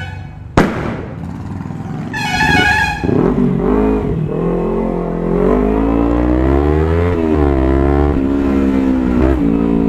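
A vehicle horn honks once for under a second about two seconds in. Then motorcycle engines rev, their pitch rising and falling repeatedly.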